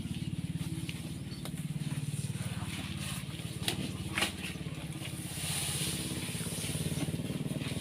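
A small engine running steadily with an even low pulsing, with a couple of sharp clicks about halfway through.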